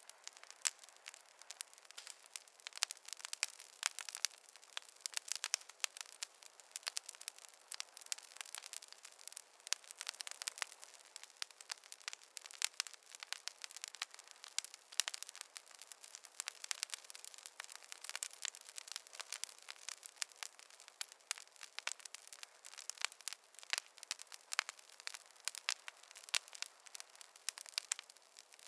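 Wood fire crackling: a dense, irregular run of sharp pops and snaps, thin and high, with almost no low rumble.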